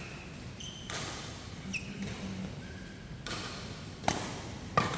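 Badminton rackets striking the shuttlecock during a doubles rally: about four sharp hits, with short high squeaks of court shoes on the floor in between.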